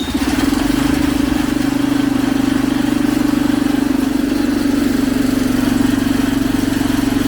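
Freshly rebuilt mini-bike engine running steadily at a loud, even speed, burning off leftover oil in the exhaust. It cuts off abruptly at the end.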